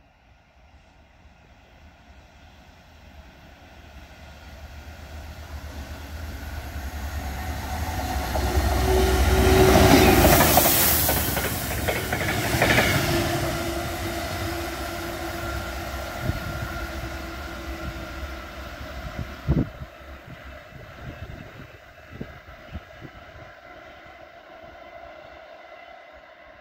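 Freightliner Class 66 diesel locomotives, with EMD two-stroke engines, hauling a rail head treatment train through the station at speed. The rumble builds to a loud peak about ten seconds in, then fades as the train draws away, with sharp clicks from the wheels near the end.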